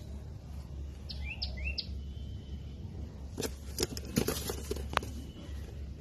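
Three short, high bird chirps about a second in, then a cluster of sharp clicks and knocks around the middle, over a steady low rumble.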